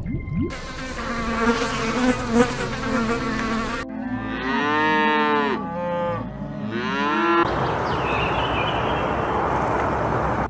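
Cow mooing: three drawn-out moos in a row, each rising and falling in pitch, in the middle of the stretch. Before them is a steady insect-like buzz. After them, an even hiss takes over.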